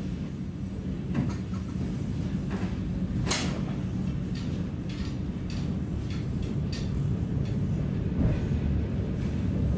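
Steady low rumble of an electric commuter train running on the rails, heard from inside the passenger car. Irregular sharp clicks and knocks from the wheels and car body come through it, the loudest about three seconds in.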